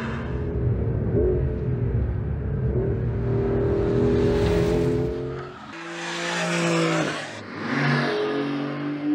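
Porsche 911 flat-six engine and exhaust under acceleration, the note climbing, breaking off about five and a half seconds in and again near seven and a half seconds, then climbing again, as at upshifts.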